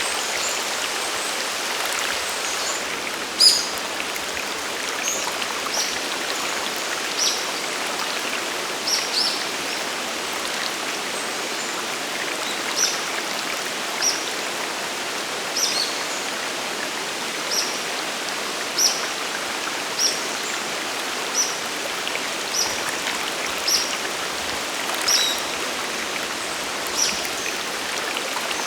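Waterfall and mountain stream water rushing steadily. Over it, a bird gives short high chirps, repeating about every one to two seconds.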